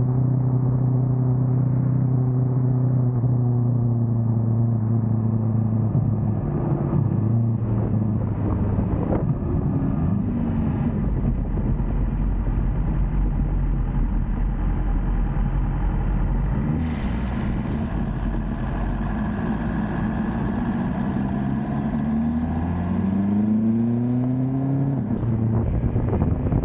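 BMW S1000R's inline-four engine under way: a steady note for the first six seconds or so, then falling and rising in pitch as the bike slows and speeds up, with a rising rev a few seconds before the end.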